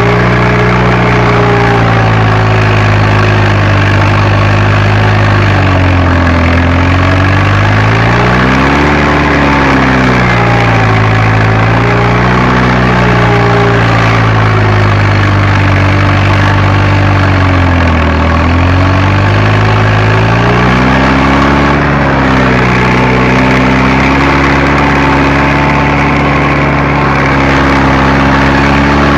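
Fiat Agri tractor's diesel engine working under load on seedbed preparation. Its pitch sags and recovers twice, about six and eighteen seconds in.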